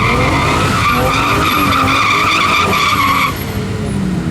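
A car's tyres squealing in one long steady screech, the sound of a drag-strip burnout, over the engine revving; the squeal cuts off about three seconds in.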